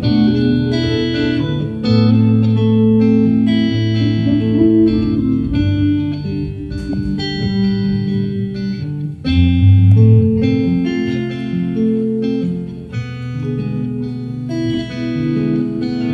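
Guitar playing an instrumental break between sung verses, a steady run of plucked notes and chords.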